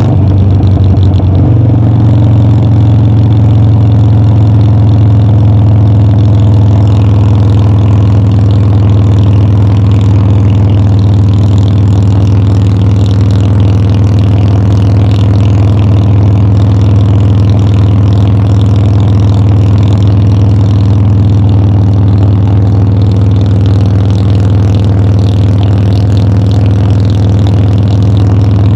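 Harley-Davidson Dyna's V-twin engine running loud and steady on the road. Its note steps up about a second and a half in, then holds at an even cruising pitch.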